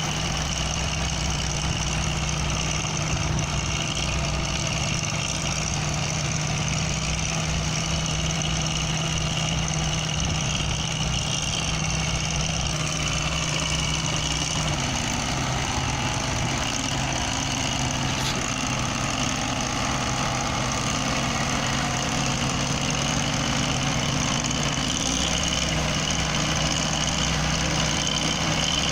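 Tractor engine running steadily at a low, even speed, its pitch shifting slightly about halfway through.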